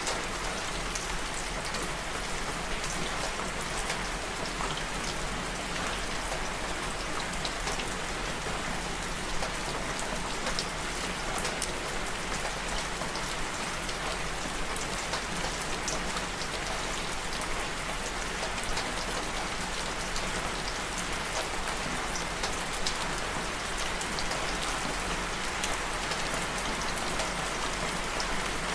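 Steady rain falling, with many fine drop ticks over an even hiss.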